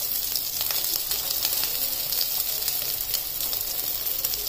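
Potato patties (aloo tikki) shallow frying in oil on a flat tawa griddle, sizzling steadily with many small crackles.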